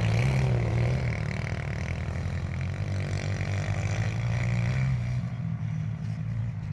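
110cc four-stroke pit bike engine running hard under throttle, its pitch wavering as the rider works the throttle, easing off about five seconds in.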